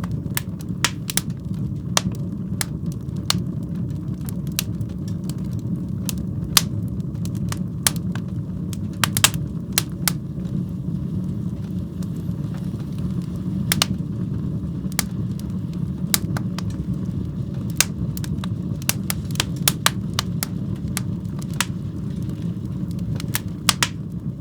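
Wood fire burning in a fireplace: a steady low rumble of flames with irregular sharp crackles and pops, a few every second.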